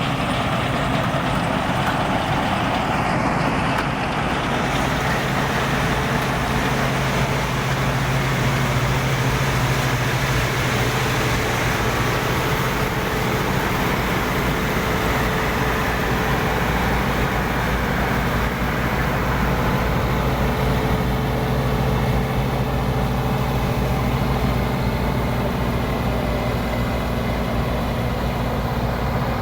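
Combine harvester running steadily at work, its engine and threshing machinery giving a continuous loud drone with a steady low hum.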